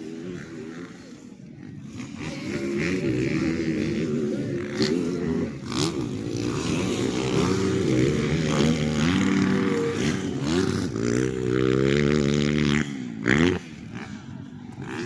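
Several motocross dirt bike engines revving up and down as the bikes race on the track, the pitch rising and falling with each throttle change. The sound builds over the first couple of seconds, is loudest in the second half, and peaks sharply as one bike passes close about thirteen seconds in, then drops away.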